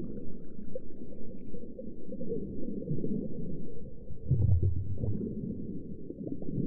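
Underwater ambience: muffled low rumbling with gurgling, bubbly flecks, and a deeper low hum swelling briefly about four seconds in.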